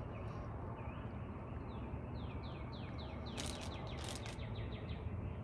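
A songbird singing a quick run of short down-slurred notes, about four or five a second, starting about a second and a half in and going on past the four-second mark, over a steady low outdoor background. A couple of brief soft rustles come a little past halfway.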